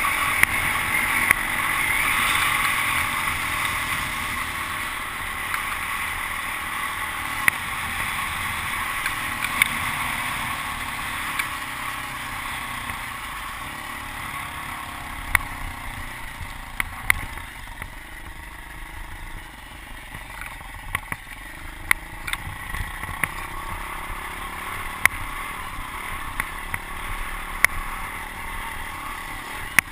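Pit bike engine running as it is ridden, loudest at first, fading away toward the middle and coming back up a little near the end, with sharp clicks and knocks scattered throughout.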